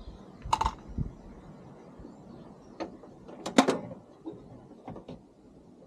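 Irregular knocks, clicks and clunks of the car door's window parts being worked loose by hand, about seven in all; the loudest knock comes about three and a half seconds in.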